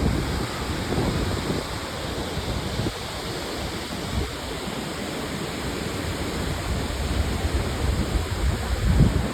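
Wind buffeting the microphone in uneven low gusts over a steady rushing hiss, strongest about a second in and near the end.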